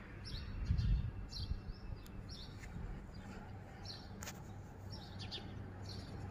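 Small birds chirping in short, high, repeated calls, about two a second, over a steady low hum. A brief low rumble comes about a second in.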